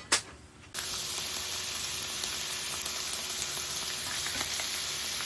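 Thinly sliced beef brisket sizzling and frying on a hot pan, a steady loud sizzle that starts suddenly about a second in, after two sharp clicks.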